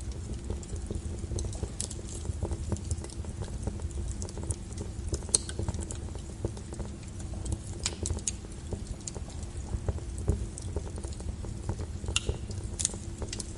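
Logs burning in a fireplace: a steady low rumble of flame under frequent small crackles, with a few sharper pops, the loudest about five seconds in and near the end.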